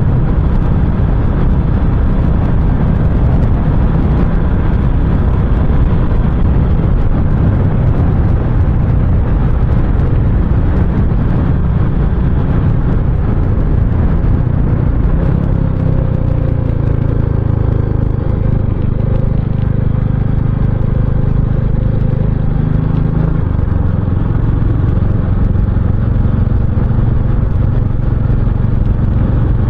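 Royal Enfield Continental GT 650's parallel-twin engine running steadily while being ridden, mixed with a dense low rumble. The engine note shifts about halfway through and again about two-thirds in.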